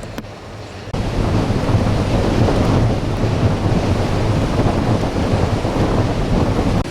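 Hurricane wind buffeting the microphone with a deep rumble, over heavy surf and rain; it jumps up suddenly about a second in and stays loud.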